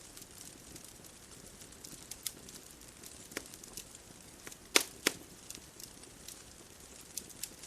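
Bonfire crackling: scattered sharp pops and snaps over a faint steady hiss, with two loud pops close together about five seconds in.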